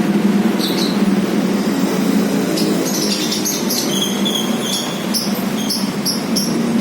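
Lovebird chirping: a single high chirp about a second in, then a quick run of short, high-pitched chirps from about a third of the way in. Under it runs a loud, steady low hum.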